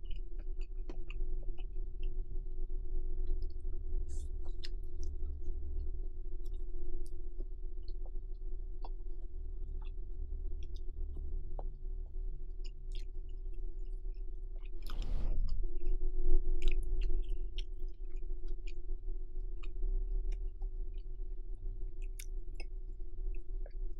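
Close-miked eating sounds of stir-fried Neoguri noodles: many small wet clicks of chewing and slurping, with one louder rush of noise about fifteen seconds in. A steady low hum runs underneath.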